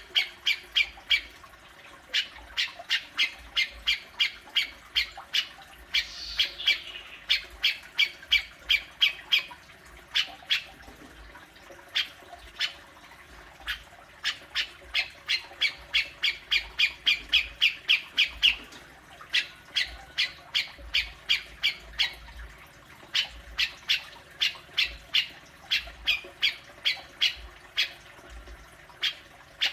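Grey-cheeked bulbul (cucak jenggot) giving its harsh 'besetan' call: bouts of rapid, evenly repeated sharp notes, about three a second, broken by short pauses.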